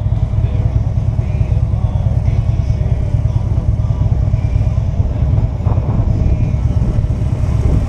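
Motorcycle riding along at speed: a steady engine drone under heavy low wind buffeting on the microphone.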